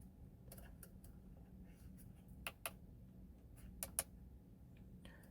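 Faint, irregular clicks of steering-wheel buttons and the scroll wheel being pressed, some coming in quick pairs, over a low hum inside a car cabin.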